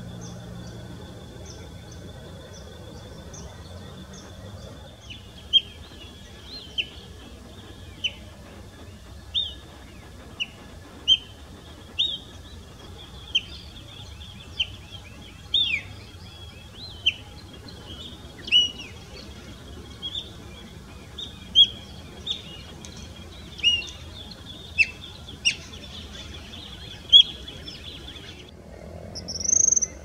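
An all-black songbird giving loud, sharp, separate calls about once a second, over a steady high trill that cuts off near the end. A pigeon's low coo fades out at the very start.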